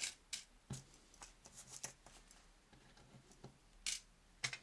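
Small items being handled and packed into a metal Altoids tin: a run of light clicks, taps and rustles, with sharper taps about four seconds in and near the end.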